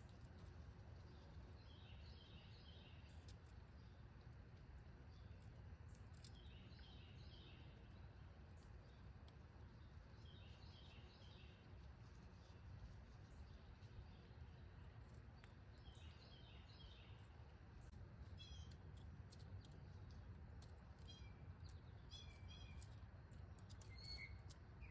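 Faint songbird song: a short phrase of quick repeated notes comes about every four seconds, then scattered chirps near the end. Faint clicks run throughout.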